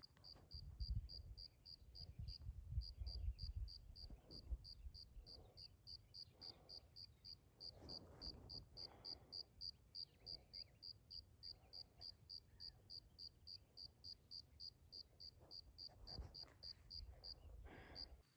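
A cricket chirping steadily, a high even chirp about four times a second. A faint low rumble sits beneath it, strongest in the first few seconds.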